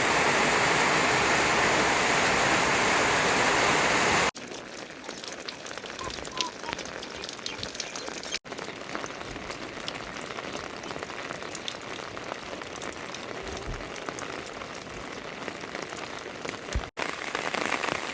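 Heavy rain falling: a dense, even hiss for the first four seconds, then, after abrupt cuts, a quieter downpour with separate drops ticking through it.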